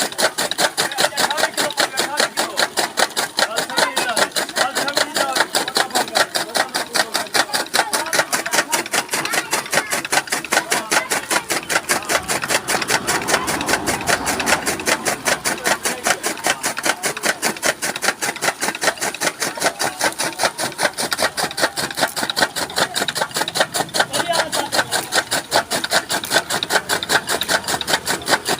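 Chaff cutter (toka machine) running and chopping maize stalks into fodder, with a rapid, even chopping rhythm of about five to six strokes a second.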